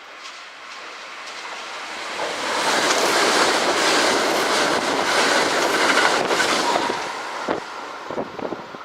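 Electric train running past. The rolling noise builds over a couple of seconds, stays loud for about four seconds and then eases off, with a few wheel clacks over rail joints near the end.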